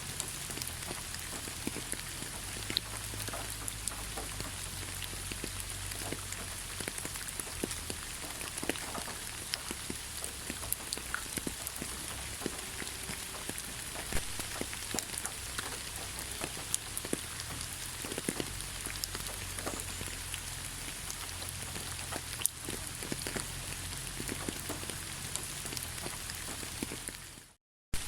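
Steady rain, an even hiss with many separate drops ticking on a surface. The sound cuts out completely for a moment near the end, then the rain resumes.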